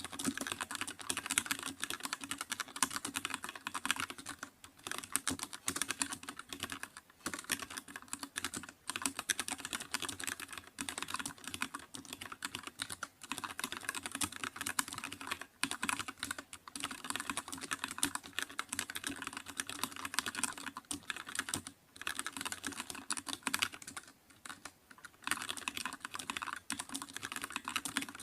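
Typing on a computer keyboard: a fast, continuous run of keystroke clicks with a few brief pauses.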